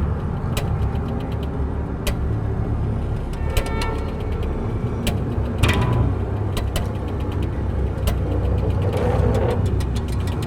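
A steady low rumble with scattered sharp clicks and a few brief ringing tones over it.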